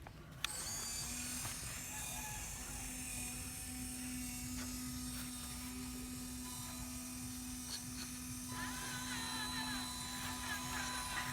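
Small electric motor of a remote-control construction truck whirring steadily. It switches on with a click about half a second in.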